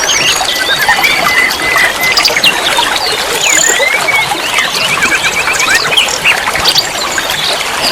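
Many small songbirds chirping, whistling and trilling at once, overlapping rapid calls, over a steady trickle of running water.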